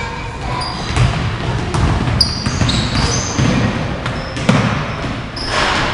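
Indoor basketball game: a ball bouncing on the court and sneakers squeaking in short high chirps, over a low murmur of crowd chatter.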